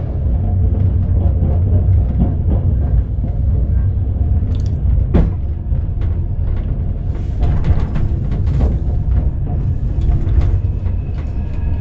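Sleeper train carriage running along the track: a loud, steady low rumble with scattered clicks and knocks.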